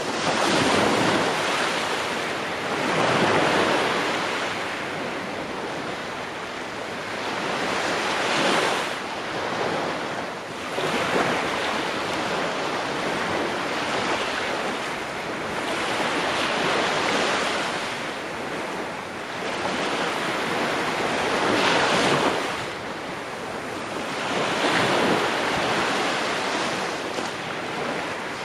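Ocean waves breaking on a shore, each surge swelling and washing back every three to five seconds.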